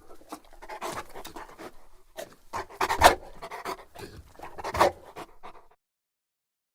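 Bullmastiff panting heavily in close-up, a run of irregular deep breaths, with the loudest about three and five seconds in; the breathing stops suddenly near the end.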